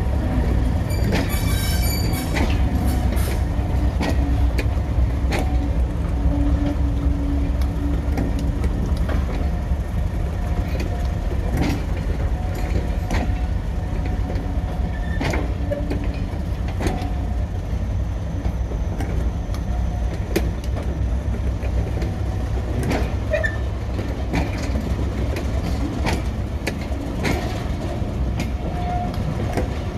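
Diesel train running along the line: a steady low rumble, with the wheels clicking irregularly over rail joints and a brief high squeal about a second in.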